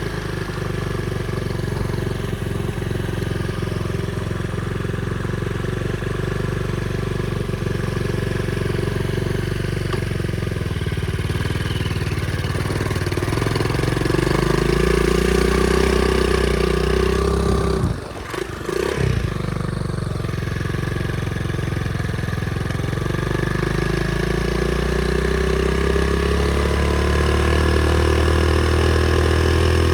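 Pit bike engine running, its revs slowly rising and falling a couple of times. A little past halfway the sound briefly drops out.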